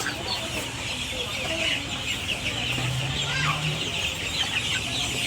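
A flock of chickens clucking and peeping together, many short high calls overlapping without a break.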